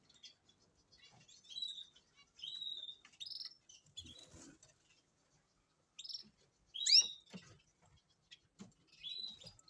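Canaries chirping: short high call notes about once a second, the loudest a sharp sweeping chirp about seven seconds in.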